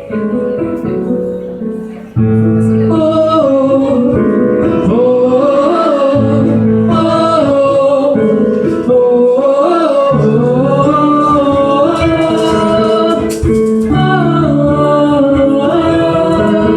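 A live band playing a pop-rock song's intro, with guitar and a sliding melody line over sustained chords. The full band comes in louder about two seconds in.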